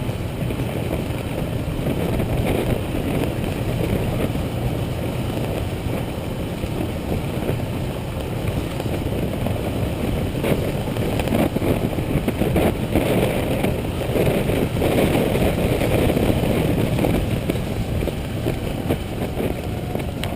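Motorcycle running steadily while being ridden, engine and road noise.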